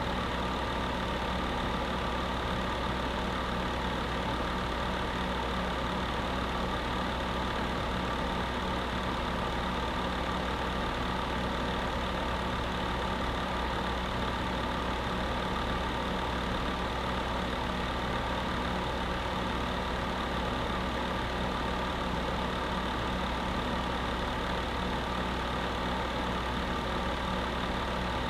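Electric space heater running steadily: an even fan noise with a low hum and a few constant tones, unchanging throughout.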